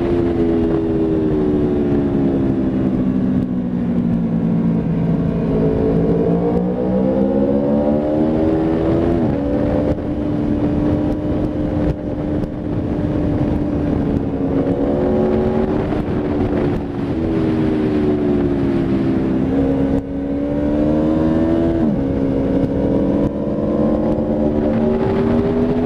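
Aprilia Tuono V4 RR's V4 engine at track speed, its pitch sliding down and climbing again as the bike brakes and accelerates through corners. There are abrupt steps in pitch at the gear changes, several times.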